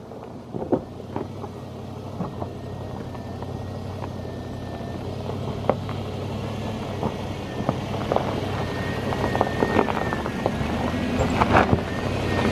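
A 4x4's engine running at low speed as the vehicle crawls over a rocky dirt trail, growing louder, with scattered clicks and knocks from tyres on stones and gravel.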